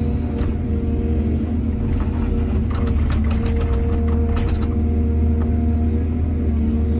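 Diesel engine of heavy earthmoving machinery running steadily, with a run of rattling clanks and clicks from about two and a half to four and a half seconds in.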